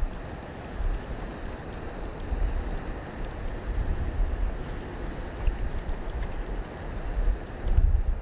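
Wind buffeting the microphone in uneven gusts, low rumbling thumps over a steady rushing noise.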